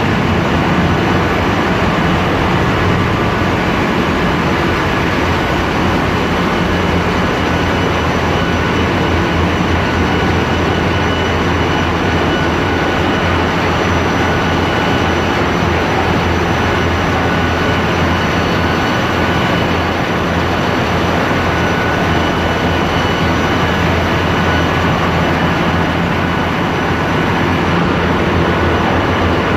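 Ship's engine room machinery running: a loud, steady diesel drone with a strong low hum and a few faint, steady high-pitched whines over it.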